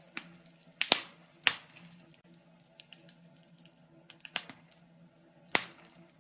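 Wood fire burning in a fireplace, crackling with many small ticks and a few louder sharp pops, the loudest about a second in and again near the end.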